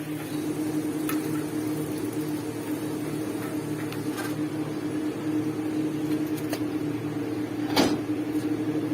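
Steady hum of a small motor or appliance, with a few light clicks and one louder knock near the end.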